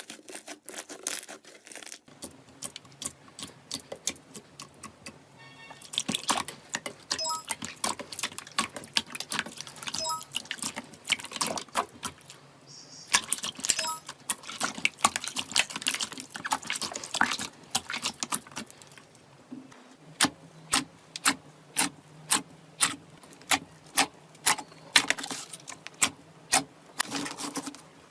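Slime being worked by hand, making a dense run of sharp clicks and wet pops. From about two-thirds of the way through, loud pops come in an even rhythm of roughly two a second.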